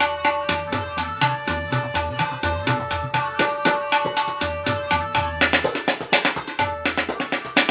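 Tabla solo in teental: fast strokes on the dayan mixed with resonant bass strokes on the bayan, over a steady melodic accompaniment of held tones. About two thirds of the way through, the held tones drop out and the strokes grow denser and brighter.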